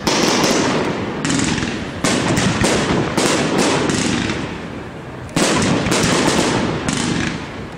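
Aerial fireworks bursting in quick succession: five loud bangs within about five and a half seconds, each trailing off in a dense crackle.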